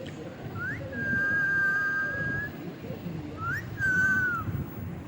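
Ringneck parrot whistling twice: each time a quick upward slide into a clear held note, the first held level for over a second, the second shorter and dipping slightly at the end.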